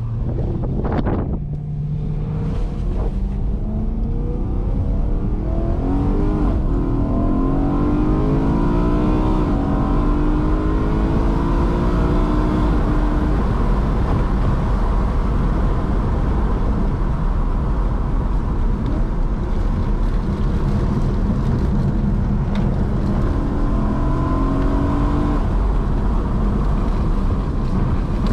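BMW E92 M3's S65 V8 engine heard from inside the cabin under a long pull, its pitch climbing steadily a couple of seconds in, then cruising steadily with tyre and wind noise, and climbing again under acceleration near the end.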